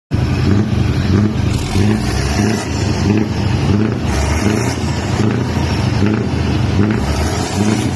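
Heavy truck's diesel engine running, a loud low rumble that swells and fades about twice a second.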